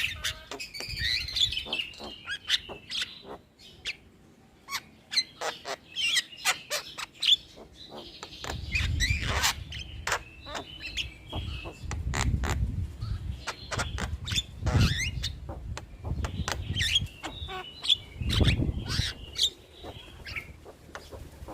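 Javan myna (jalak kebo) singing its chattering song: a fast mix of sharp clicks, squeaky chirps and rasping whistles, with bouts of low rumbling noise in the middle and near the end.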